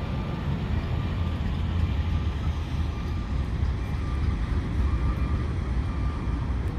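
Diesel locomotives idling just after start-up: a steady low engine rumble with a faint steady whine above it.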